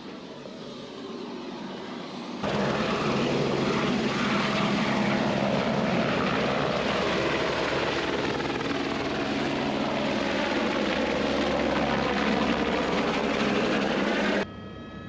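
Helicopter engine and rotor noise: a loud, steady drone that starts abruptly about two seconds in and cuts off suddenly shortly before the end, with a quieter steady hum before it.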